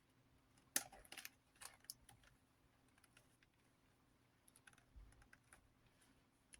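Faint scattered clicks and rustles of hands handling a box fan's plastic housing and motor wires, a small cluster about a second in and a few softer ones later.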